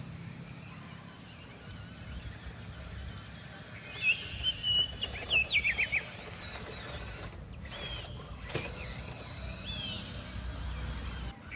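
Birds chirping outdoors: a held high whistle at the start, then short quick chirps and sweeping calls, over a steady low rumble. The sound drops out briefly twice just past the middle.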